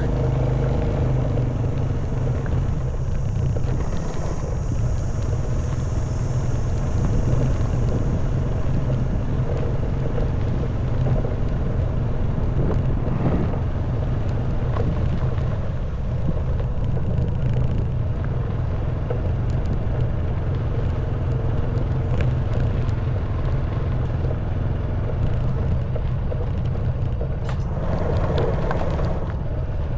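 Honda Wave 110cc single-cylinder four-stroke engine running steadily while riding a rough stone and dirt forest track. Near the end a harsher rush of noise lasts about two seconds.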